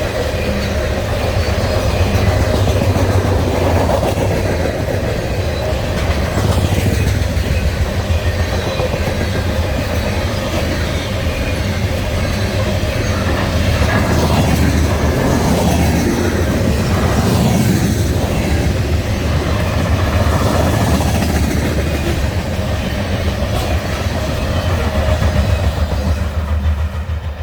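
Empty CSX coal hopper cars rolling past, a steady loud rumble and clatter of steel wheels over the rails. About halfway through, rising and falling wheel squeals come in over the rumble.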